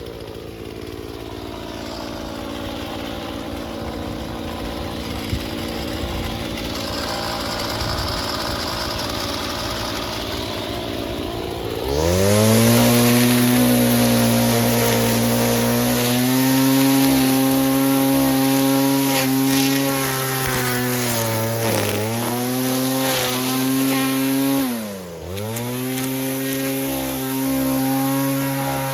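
Stihl FS36 string trimmer's single-cylinder two-stroke engine running on its rebuilt carburettor: at low speed at first, then revved up about twelve seconds in and held at high speed, with two brief dips in pitch near the end as the throttle is eased and opened again.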